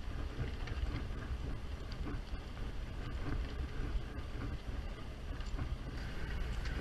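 Steady low rumble with wind buffeting the microphone and a few faint clicks.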